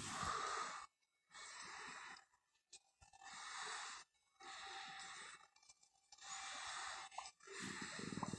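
Heavy breathing: a series of noisy, hissing breaths, each about a second long, with short pauses between them.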